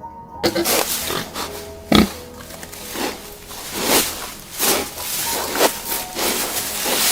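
An animal giving a series of rough, noisy calls, roughly one every half second to a second, over faint steady background tones.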